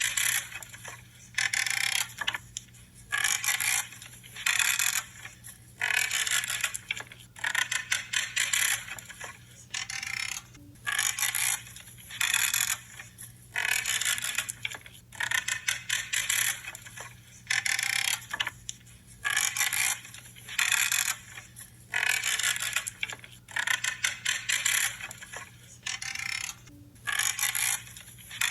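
Branches being trimmed, about one cut a second: each cut is a short crackling creak of wood fibres giving way.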